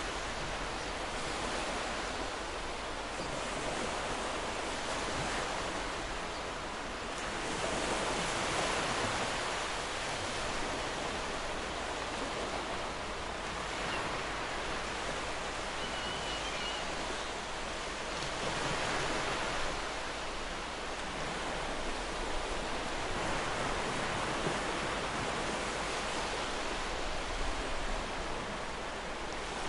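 Ocean surf washing onto a beach: a steady hiss of waves that swells louder twice, about a quarter of the way in and again past the middle.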